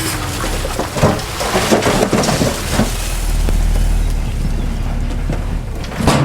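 Heavy earthmoving machinery working soil: a diesel engine's low, steady rumble under a dense rushing noise of moving earth, with scattered knocks and clanks.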